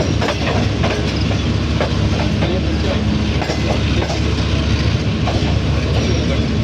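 Passenger train running along the track: wheels clicking over rail joints against a steady low drone.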